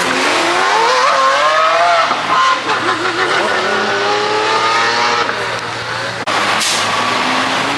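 Performance car engine accelerating hard, its pitch climbing in two long rises as it pulls through the gears. There is a sudden break about six seconds in, and after it the engine keeps running.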